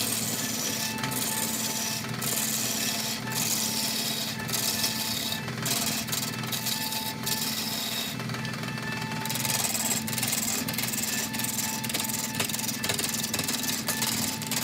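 Lathe gouge cutting into a large spinning wooden log, a steady scraping and chattering as the chips fly off the uneven surface, with short knocks about once a second over the lathe motor's steady hum.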